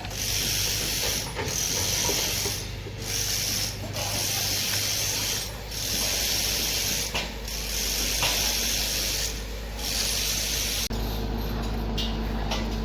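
Machinery running: a steady low hum under a loud hiss that dips briefly every second or two, then the hiss stops about eleven seconds in, leaving the hum.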